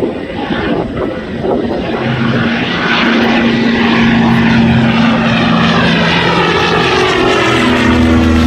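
Douglas C-47 Skytrain flying past, the drone of its two radial piston engines and propellers growing louder about two seconds in and then holding steady.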